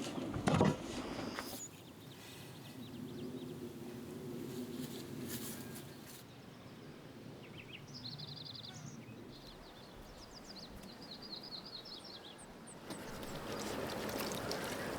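Outdoor rural ambience with small birds chirping in short trills through the middle. A thump comes about half a second in, and a louder rustling-type noise sets in near the end.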